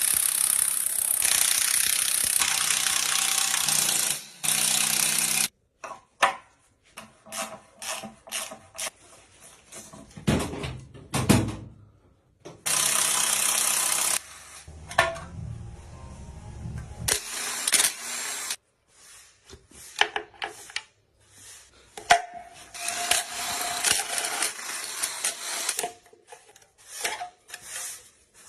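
Mechanic's tools at work on an engine: a power tool running in steady bursts of a second or more, with many short clicks, clanks and ratcheting sounds of hand tools and metal parts in between.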